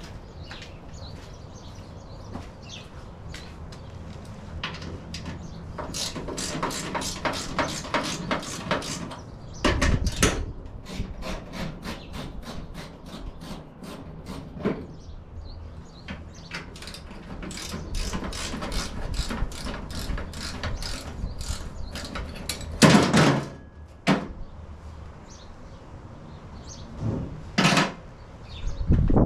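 Hand tools at work on the buggy's shifter: runs of rapid ratchet clicks, with a few louder knocks in between.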